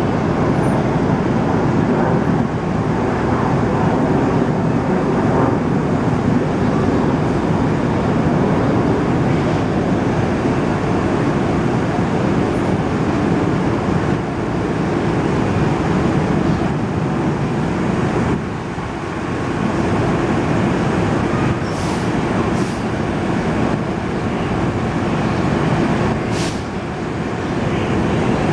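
New York City subway train running with a steady, loud rumble, with a few brief sharp clicks in the last third.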